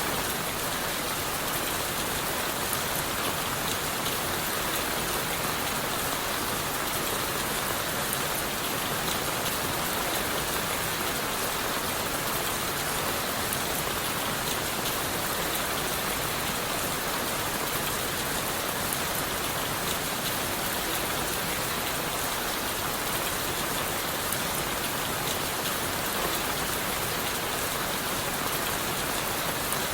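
Steady rain falling on leaves, wood and the forest floor, heard from under a wooden shelter: an even, unbroken hiss of rain with fine drop ticks, not changing in strength.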